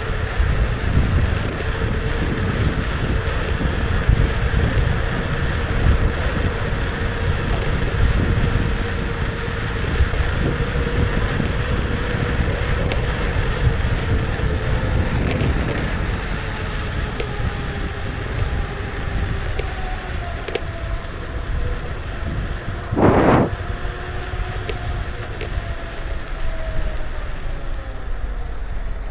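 Kukirin G2 electric scooter riding along. Wind buffets the action camera's microphone, and road noise rumbles underneath the steady whine of the scooter's electric motor, whose pitch slides down and back up in the second half. There is a brief loud rush about three quarters of the way through.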